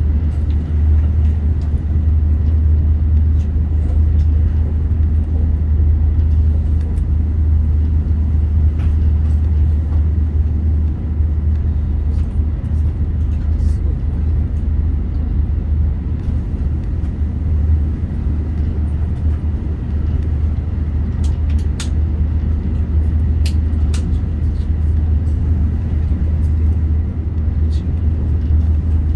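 Running noise of a Meitetsu Panorama Super express train heard from on board: a steady, loud low rumble of wheels and motors on the track, with a few sharp clicks a little past two-thirds of the way through.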